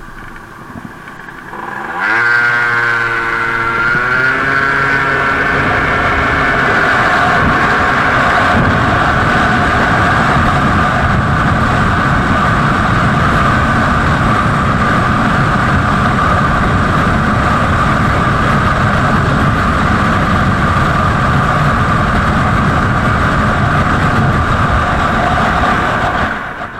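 Gilera Runner 180 scooter engine idling, then opened to full throttle about two seconds in: the revs climb quickly and then hold almost steady at a high pitch while the scooter keeps speeding up towards its top speed of about 120 km/h, with a rising rush of wind. The sound cuts off abruptly near the end.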